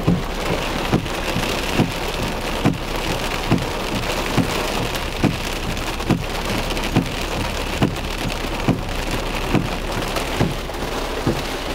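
Heavy rain pouring down, with a soft thump repeating evenly a little more often than once a second.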